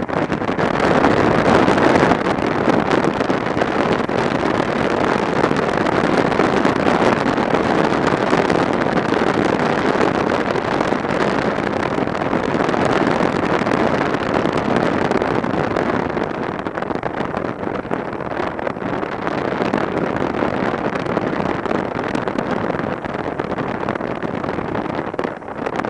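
Wind rushing over the microphone of a camera on a moving motorcycle, with road and engine noise underneath: a steady, loud roar of noise with no clear engine note, easing slightly in the second half.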